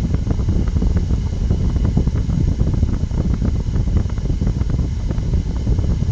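Wind buffeting the microphone: a loud, steady low rumble with constant crackle.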